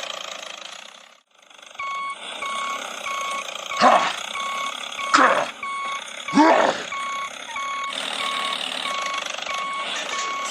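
Vehicle reversing alarm beeping steadily, about one and a half beeps a second, starting about two seconds in over a steady engine-like noise. Three short voice-like sounds sweep down in pitch partway through.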